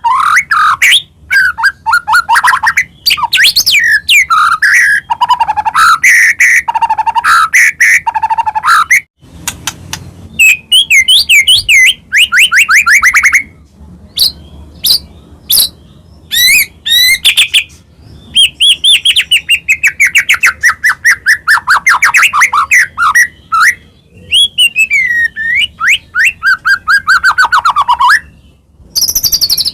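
White-rumped shama (murai batu) singing loudly in long, varied phrases of clear whistles, rapid trills and sweeping notes, with short pauses about nine seconds in and near the end. This is the full, continuous singing keepers call gacor.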